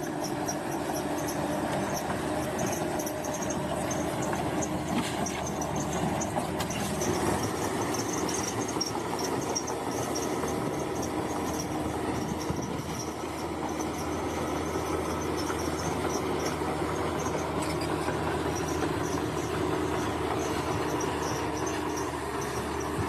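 Bulldozer's diesel engine running steadily at work, with a high metallic squealing from its steel crawler tracks.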